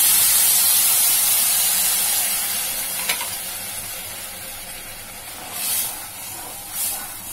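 Water poured into a hot aluminium kadhai of sugar on a gas flame, hissing loudly at first and slowly dying down as the sugar syrup starts. Near the end there are two short scraping swishes as a metal slotted spoon stirs it.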